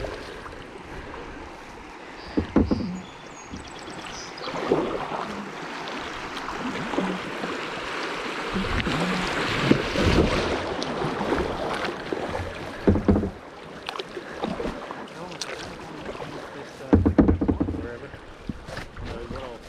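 Kayaking on a river: paddle splashing over steady rushing water that swells in the middle, with a few sharp knocks, the loudest a cluster near the end.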